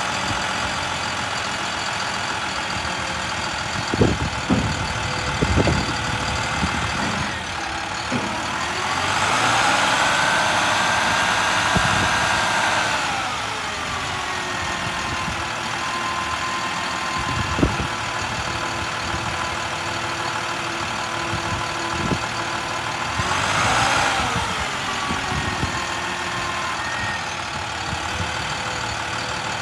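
A utility truck's MaxxForce DT inline-six diesel engine running at idle. It speeds up and holds a higher pitch for about four seconds near the middle, then briefly again near the end. A few sharp knocks sound over it.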